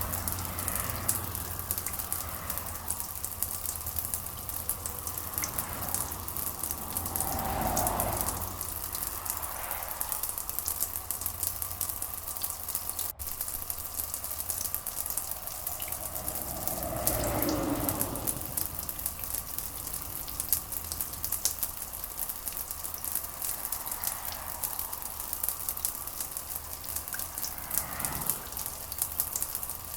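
Steady rain pattering densely, with a low rumble swelling up three or four times.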